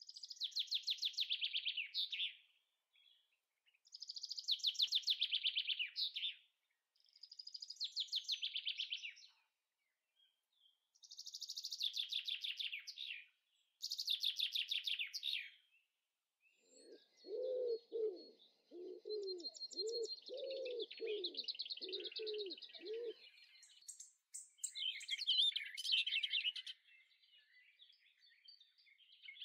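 Birdsong: repeated trilled phrases of rapid high notes, each about two seconds long with short pauses between. Past the middle, about a dozen low coos run for some six seconds under a steady high whistle, then busier chirping follows.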